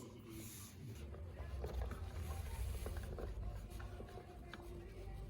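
Faint scratching and rubbing, with a few light ticks, as a piece of self-adhesive carpet is worked by hand.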